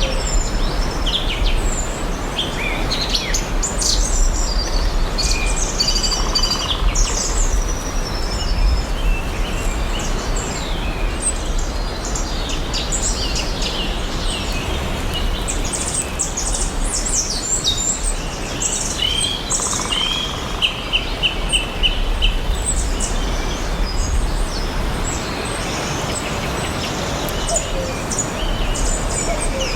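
Several songbirds chirping and singing over a steady outdoor background hiss, with a rapid run of repeated notes about two-thirds of the way through.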